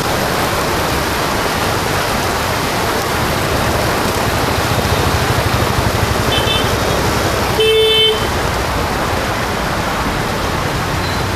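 Steady hiss of rain with road traffic going by; a vehicle horn honks once briefly about two-thirds of the way through.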